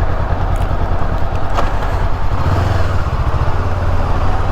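Honda CB500X parallel-twin engine running under way, heard from the rider's position with wind and road noise. Its low engine note gets stronger about halfway through.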